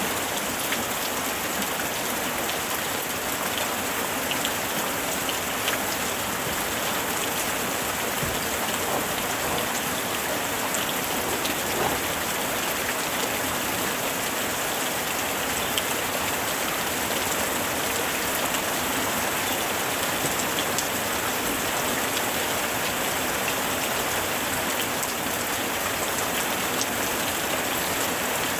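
Steady rain falling, a constant hiss with scattered ticks of single drops hitting a surface.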